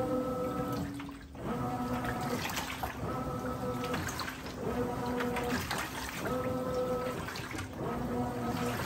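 Brastemp 17 kg washing machine agitating its load: the motor hums in strokes of about a second and a quarter, one about every second and a half, over sloshing water.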